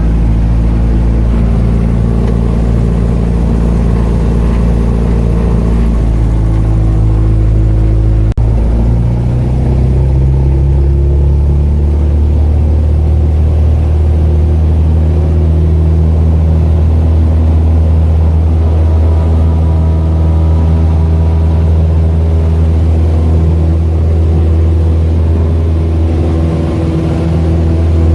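Small propeller airplane's piston engine running steadily, heard from inside the cabin. About eight seconds in, the engine speeds up to a higher, steady pitch.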